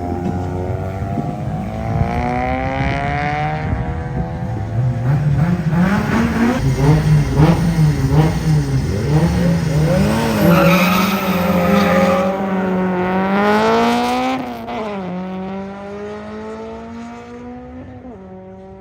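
Car engines running hard in a race, the engine note climbing and wavering through gear changes and loudest in the middle. About fifteen seconds in the pitch drops sharply as the throttle eases, and the engine settles into a steady note that fades away.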